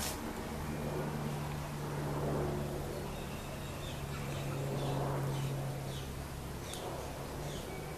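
Outdoor ambience: a small bird chirping in short, high, falling notes every half second or so, over a steady low hum.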